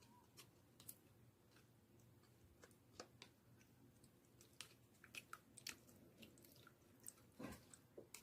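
Faint, scattered sticky clicks and small pops of slime being handled, a few each second, with a slightly fuller squish about seven and a half seconds in.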